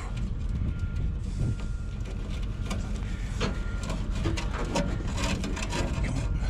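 Scattered clicks, knocks and rattles of scrap parts being handled and pulled apart by hand, over a steady low rumble.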